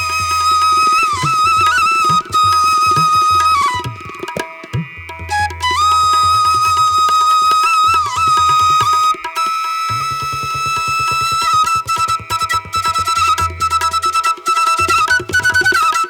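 Instrumental music: a flute playing long held notes with small ornamental bends, over a low drone and hand-drum percussion. The flute breaks off briefly around four seconds in, then comes back.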